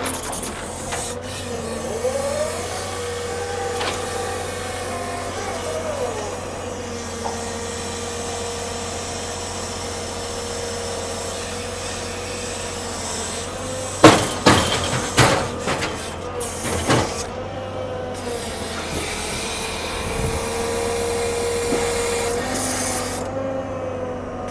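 Heavy log-handling machinery running steadily with a held whining tone, and a run of loud knocks and bangs in the middle, as of logs or steel striking during unloading of a log truck.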